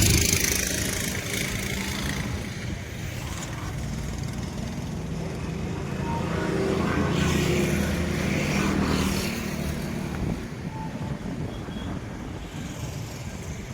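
Passenger express train rolling past on the track: a steady low rumble with wheel clatter that fades gradually.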